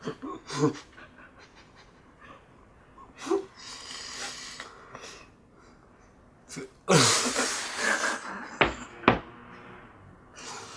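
Heavy panting breaths and muffled laughter from people with mouths crammed full of marshmallows, with a loud rushing breath about seven seconds in. Two sharp thumps follow, half a second apart.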